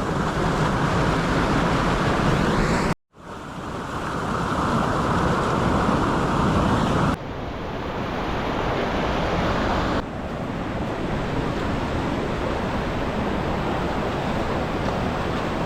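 Steady rushing of a waterfall and creek running high after heavy rainfall. The sound drops out briefly about three seconds in and changes abruptly twice later on, as if cut between shots.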